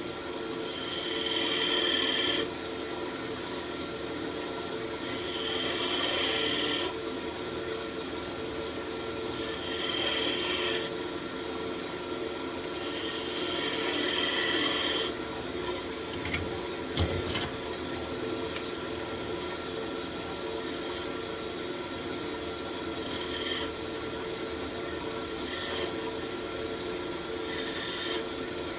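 Turning tool cutting into a walnut wand spinning on a wood lathe, in repeated scraping passes of one to two seconds that get shorter later on, over the steady hum of the lathe motor.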